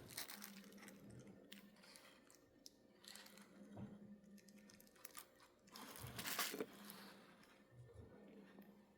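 Faint, steady low hum of a Rivarossi Casey Jones 4-6-0 model locomotive's small electric motor running on test, breaking off now and then, with a few faint rustles and clicks.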